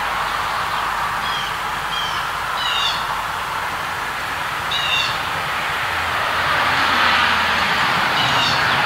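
Birds giving short high chirps about five times over a steady rushing background noise.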